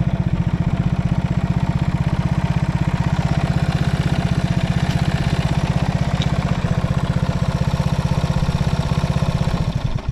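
Yamaha TW200's single-cylinder four-stroke engine, breathing through a Supertrapp down-muffler, idling with a steady, even beat, then shut off just before the end. It runs with no abnormal noise, as the seller states.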